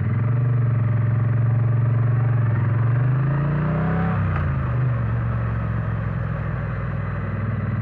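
Triumph Bonneville T100's parallel-twin engine running through its peashooter silencers, holding a steady note, then rising in pitch as it accelerates for about a second and a half. About four seconds in the note drops sharply with a click, and it settles back to a steady lower note.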